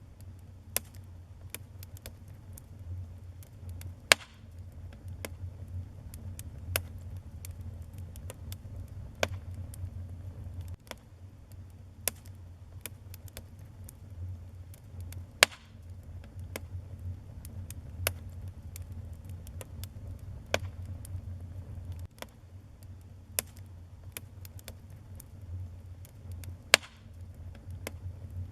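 Wood fire in a fireplace crackling: irregular sharp snaps and pops, a few much louder than the rest, over a steady low rumble.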